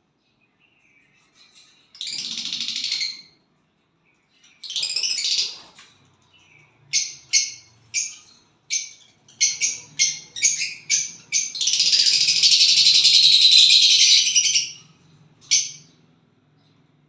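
A small bird singing: two buzzy, high-pitched bursts of about a second, then a run of short chirps that come faster and faster, leading into one long buzzy trill of about three seconds, and a last single chirp near the end.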